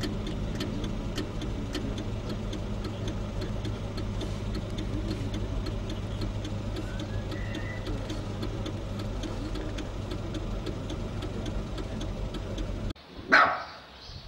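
Car engine running at low speed, heard from inside the vehicle as a steady low hum with faint regular ticking. Near the end the hum cuts off abruptly and a dog barks once, loudly.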